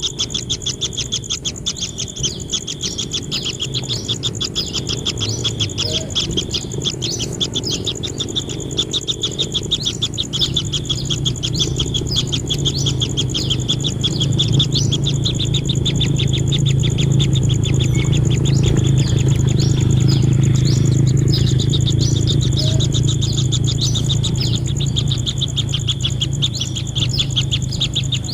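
Kingfisher nestlings in their burrow nest calling with rapid, repeated short chirps, over a steady high-pitched tone and a low rumble that grows louder midway.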